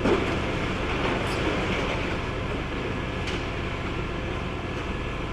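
Demolition excavator's diesel engine running steadily as the grab works, with a thump right at the start and a couple of faint clanks.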